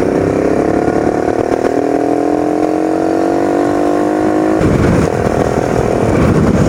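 Motorcycle engine pulling through a gear, its note rising slowly and steadily as it accelerates. About four and a half seconds in the engine note drops out and a steady rushing noise takes over.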